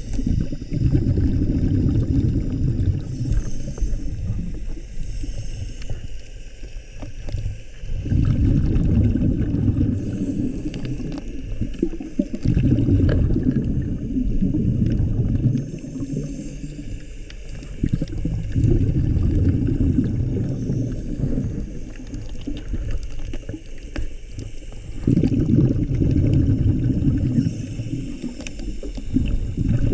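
A scuba diver breathing through a regulator underwater. Each exhale releases a burst of bubbles that rumbles and gurgles, repeating every few seconds, with a fainter hiss from the regulator on the breaths in between.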